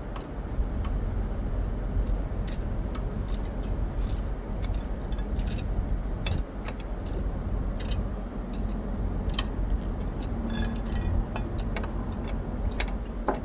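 Steady low vehicle rumble, with scattered light metallic clicks and clinks of hand tools working on the wheel's lug nuts.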